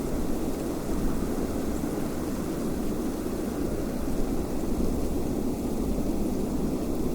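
Wind blowing steadily, an even low rush of noise without distinct gusts.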